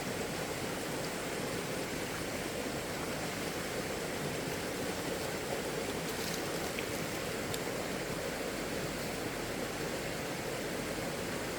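Steady, even rushing of running water, with a few faint ticks near the middle.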